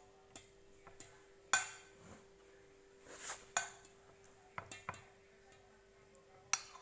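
Spoon clinking against a dish while scooping agar-agar jelly: about five sharp clinks spread out, with a short scrape near the middle.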